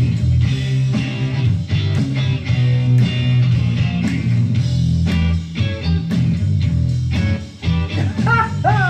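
Rock song with electric guitar, bass and drums playing at full level, with a singing voice coming in near the end.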